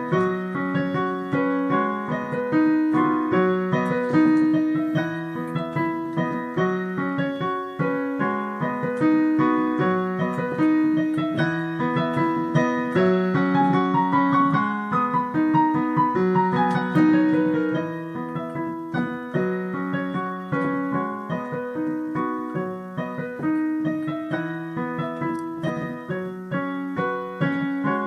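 Piano playing a melody over a steadily repeating broken-chord accompaniment.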